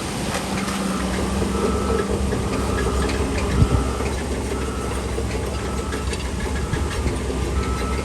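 Heavy diesel engine of a bulldozer running steadily, with a reversing alarm beeping about once a second, scattered metallic clicks, and one sharper knock about three and a half seconds in.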